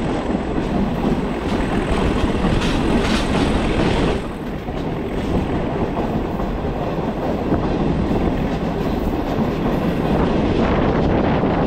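Passenger train running along the track, heard from aboard: a steady noise of wheels on the rails that dips briefly about four seconds in.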